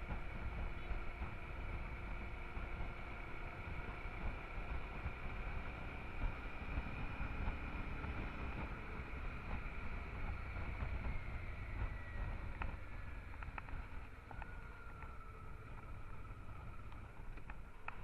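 Honda Transalp XL 650's V-twin engine running under way with a steady low rumble and wind noise on the action-camera microphone; its whining note drops in pitch about two-thirds of the way through.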